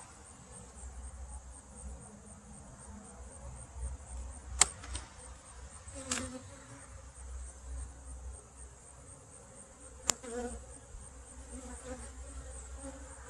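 Honeybees buzzing around an opened hive, with three sharp clicks of hive parts being handled, the first and loudest about four and a half seconds in.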